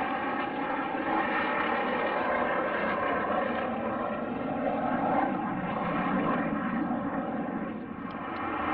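Fixed-wing aircraft engine noise: a steady, loud drone made of several held tones over a rushing noise, dipping briefly near the end before rising again.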